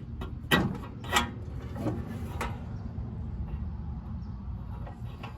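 Four short knocks and clatters as parts of a pellet grill are handled and fitted back together, over a steady low background rumble.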